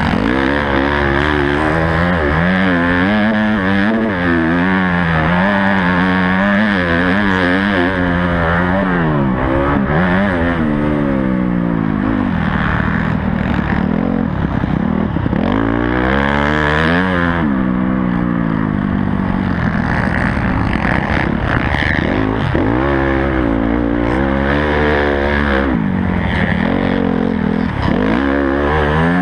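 Honda CRF250 four-stroke motocross bike engine heard up close from on the bike, its pitch climbing and falling again and again as the throttle is worked and gears change, with wind rushing over the microphone.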